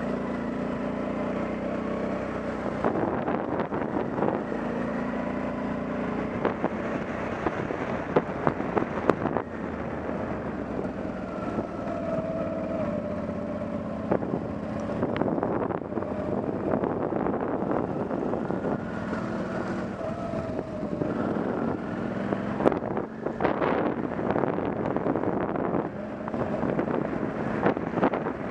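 Off-road motorcycle engine running while riding, its revs rising and falling, with wind buffeting the microphone. Sharp knocks from bumps come through about eight seconds in and again near twenty-three seconds.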